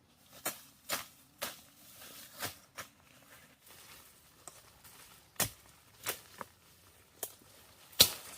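About ten sharp knocks or strikes at irregular intervals, the loudest one near the end.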